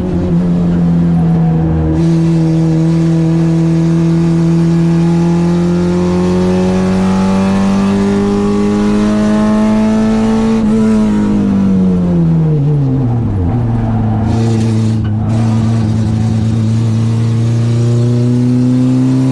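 Citroën AX's 8-valve four-cylinder engine on twin Weber 40 carburettors under power, its pitch climbing slowly for about ten seconds, then the revs falling steeply for a few seconds before climbing again from lower revs.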